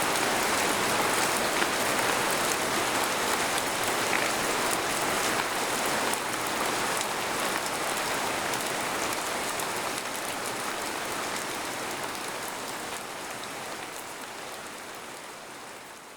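Steady rain falling on a tent, with many fine drop ticks; the sound fades out gradually over the last few seconds.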